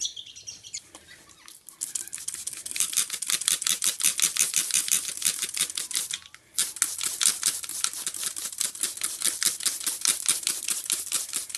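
Hand trigger spray bottle squeezed rapidly, several squirts a second, misting water onto a car windscreen; the spraying pauses briefly just past halfway, then carries on.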